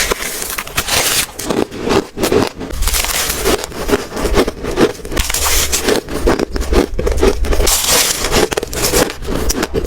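Ice being bitten and chewed close to the microphone: a dense, loud run of crisp crunches and crackles.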